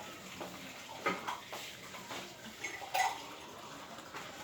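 Dishes and cutlery clinking and knocking, with two sharper clinks about a second in and near three seconds, and a few fainter knocks between.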